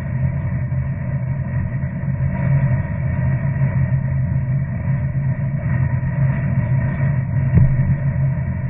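A steady low engine rumble, with a single short thump about seven and a half seconds in.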